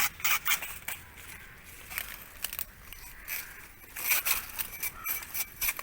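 Banana leaf being handled, torn and crumpled, giving irregular sharp crackles and rips.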